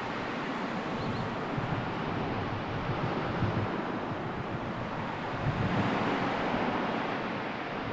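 Sea surf washing in steadily, with wind gusting on the microphone in low rumbles; the surf swells up about two thirds of the way through.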